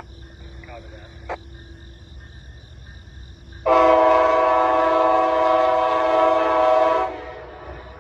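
Locomotive air horn sounding one long, steady blast of several notes, which starts suddenly a few seconds in and cuts off about three seconds later: the horn of an approaching Amtrak train led by a Siemens Charger locomotive.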